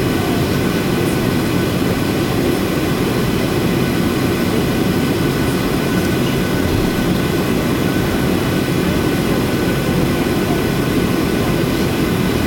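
Boeing 737-800's CFM56 jet engines running at a steady setting: a constant deep rush with a faint, steady high whine on top.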